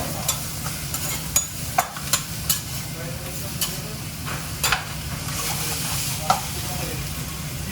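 Food sizzling in a pan while a metal utensil stirs it, with sharp clinks against the pan every second or so over a steady low hum.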